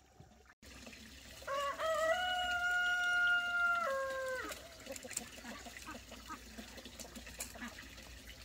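A rooster crowing once, starting about a second and a half in: one long call that holds level and then falls away at the end.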